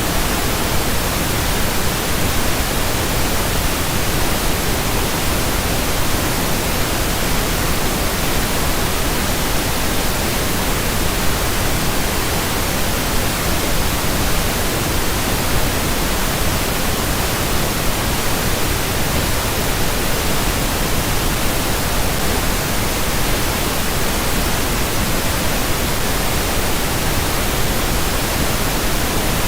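Synthetic pink noise: a steady, even hiss spread across the whole range with more weight in the lows, unchanging.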